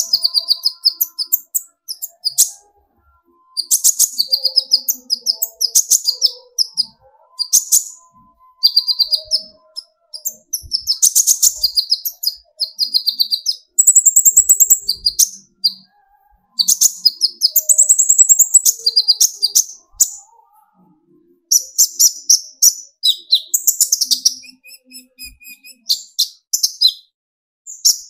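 Kolibri ninja (konin) sunbird singing its rapid, high-pitched chattering song, the 'tembakan' bursts used as a lure to rouse other konin. Short phrases of quick chirps follow one another with brief pauses.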